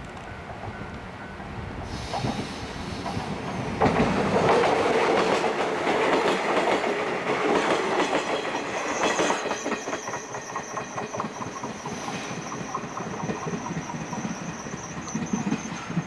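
Electric train passing close by: a sudden rise about four seconds in, then wheels clicking in rhythm over rail joints, with a steady high whine setting in about nine seconds in.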